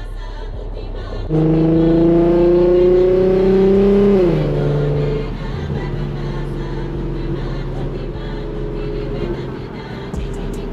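Infiniti Q50's V6 with an aftermarket Ark exhaust and resonated test pipes, accelerating hard: the exhaust note gets suddenly louder about a second in and rises in pitch for about three seconds, then drops sharply and runs on steadily at lower revs.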